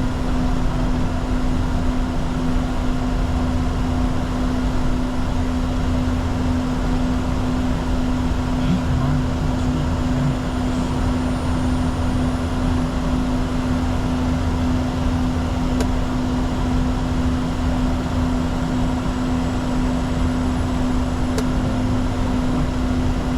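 Steady cockpit noise in a Bombardier Challenger 604 under power: the drone of its twin General Electric CF34 turbofans and the rush of air, with a constant hum running through it.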